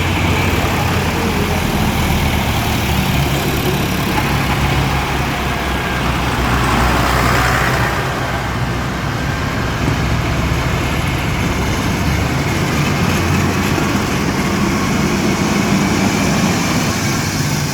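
Vintage tractor engines running steadily, growing louder for a moment about seven seconds in, as if one passes close by.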